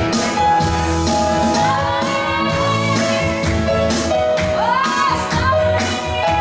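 A woman singing a pop song over instrumental accompaniment with a steady bass line, her held notes sliding up into several of the lines.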